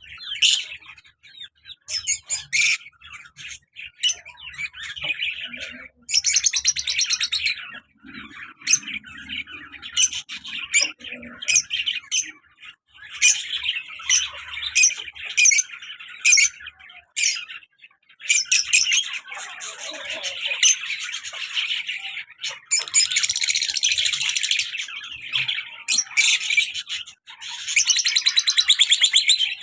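Lovebirds chattering: a near-continuous stream of rapid, shrill chirps and sharp chips, some close-packed into fast twittering runs.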